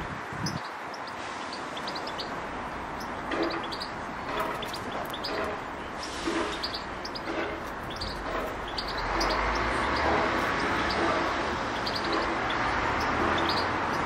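Small garden birds chirping, with short high notes scattered throughout, over a steady background hiss that grows louder about nine seconds in. A series of short low notes sounds in the background.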